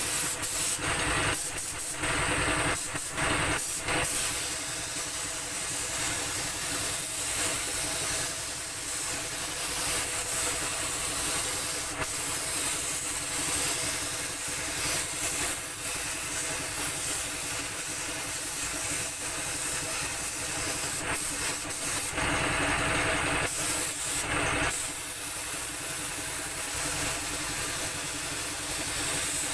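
Compressed-air paint spray gun hissing, with a steady motor hum underneath. The hiss grows brighter and louder for a few seconds at a time, near the start and again about three-quarters of the way through.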